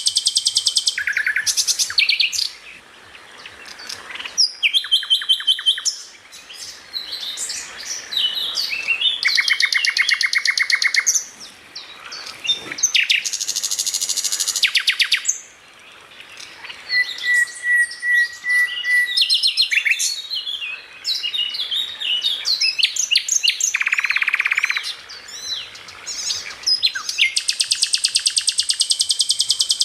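Songbird singing: fast, dense, buzzy trills a second or two long, repeated again and again, alternating with quick varied chirps and a short string of clear whistled notes about halfway through. This is masteran song, loud and continuous.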